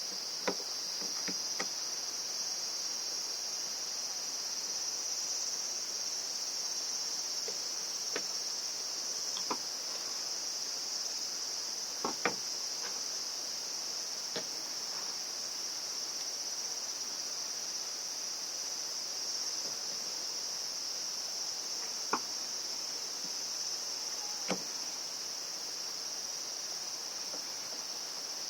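Steady, unbroken high-pitched chorus of insects such as crickets, with a handful of light, sharp clicks and taps scattered through it, a couple of them close together about twelve seconds in.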